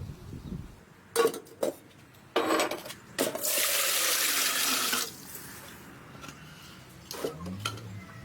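Water poured in a steady stream for about two seconds, stopping abruptly, preceded by a few knocks and clinks of pots and utensils being handled.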